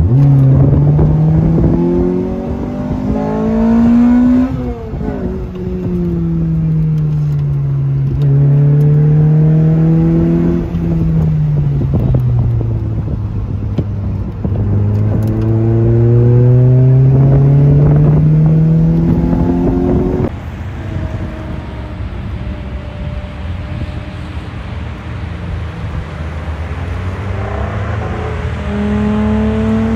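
Sports car engine heard from inside the cabin on track, accelerating hard with the pitch climbing and dropping back at upshifts about four and eleven seconds in, easing off, then pulling hard again. About twenty seconds in the sound changes abruptly to a quieter, steadier engine note.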